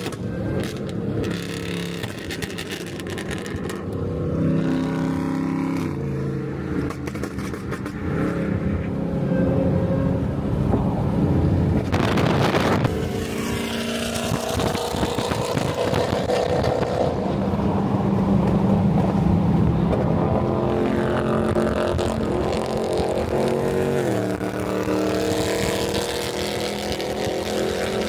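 Car engine running under way, its pitch stepping up and down as the revs change, with a brief rush of noise about twelve seconds in.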